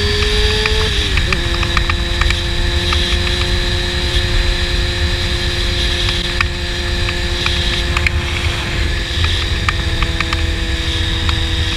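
Honda CBR600 inline-four sport bike with a slip-on exhaust cruising at steady revs. Its pitch dips briefly about a second in, then holds steady slightly lower, over heavy wind rumble on the microphone.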